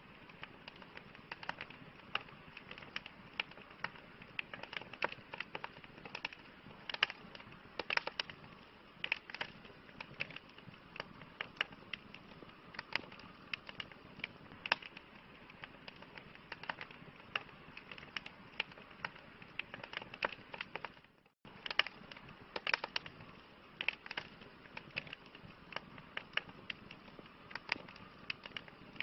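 Campfire crackling: irregular sharp pops and snaps over a soft steady hiss. The sound cuts out briefly about two-thirds of the way through, then resumes.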